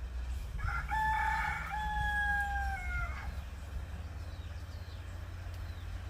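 A bird's call: one long drawn-out cry of about two and a half seconds, rough at the start, then a clear held note that drops in pitch at the end.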